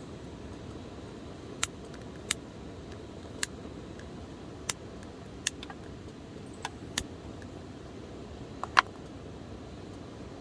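Wood campfire crackling: irregular sharp pops, about nine in all with the loudest near the end, over a steady low rush.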